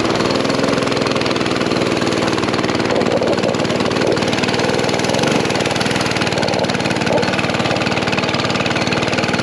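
Mini bike's small engine running steadily under load while climbing a hill.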